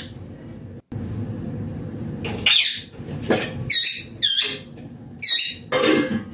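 Baby rose-ringed (green ringneck) parakeet giving a run of short, high-pitched squeaky calls, about six of them over the last four seconds, after a couple of seconds of low background noise.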